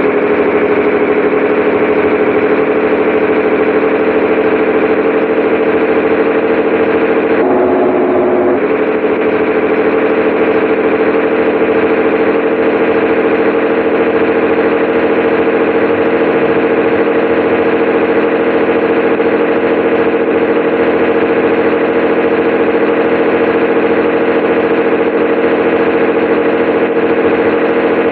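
Scania 113H 360 truck's 11-litre six-cylinder diesel running in a steady, loud drone, its pitch creeping slowly upward. There is a short break in the drone about eight seconds in before it settles back.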